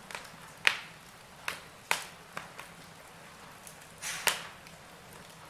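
Burning logs in a fireplace crackling, with sharp irregular pops and snaps over a faint steady hiss of the fire.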